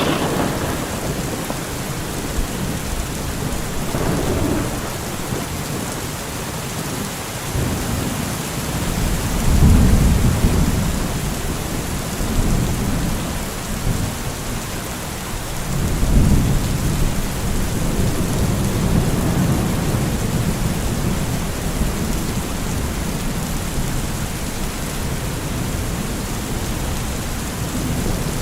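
Steady heavy rain with thunder rumbling several times over it, the deepest rolls swelling about ten seconds and sixteen seconds in.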